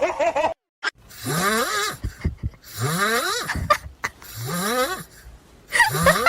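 A pet snoring loudly in four rhythmic breaths, each a rising then falling wheezy tone over a breathy hiss.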